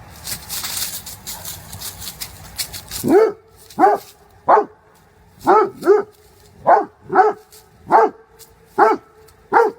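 A dog barking repeatedly, about ten short barks in a fairly even rhythm, starting about three seconds in. Before the barks there is a loud rush of noise with clicks.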